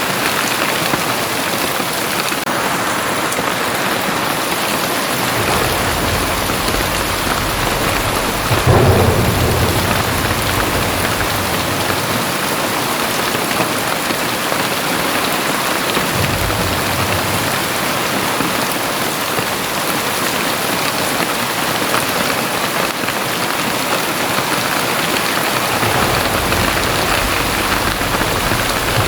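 Very heavy rain pouring steadily. Low rumbles of thunder swell beneath it a few times, the loudest about nine seconds in.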